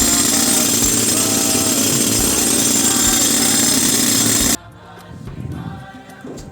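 Compressor-powered pneumatic rock drill running steadily, boring blast holes into rock. It stops abruptly about four and a half seconds in, leaving choir music playing.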